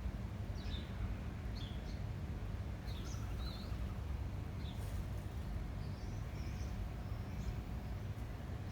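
Garden ambience of wind rumbling on the microphone, with small birds giving short, high chirps every second or so.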